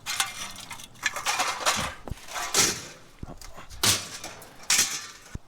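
Scrap metal being worked by hand: a series of sharp metallic clanks and scrapes, roughly one a second.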